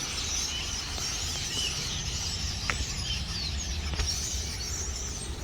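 A large flock of birds gathered to roost in trees, chattering continuously as a dense wash of overlapping chirps and squeaks, over a steady low rumble.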